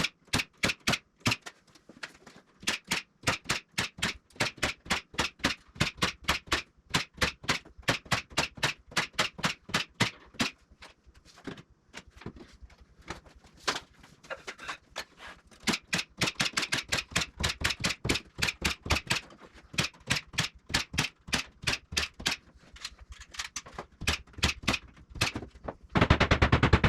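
A long, regular series of sharp clicks or taps, about three to four a second, pausing briefly now and then. Near the end they give way to a louder, denser rapid rattle of impacts.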